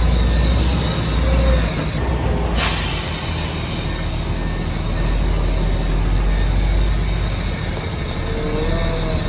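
Heavy earthmoving machinery at work: a steady diesel drone under a bright hiss, which drops out briefly about two seconds in. A high, wavering squeal comes in near the end.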